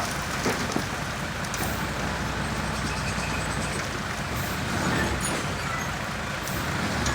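Engine of a heavy vehicle running steadily, a tractor or dump truck working soil, a little louder about five seconds in.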